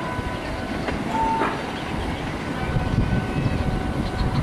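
Train running past on the track: a steady rumble of the train and its wheels on the rails.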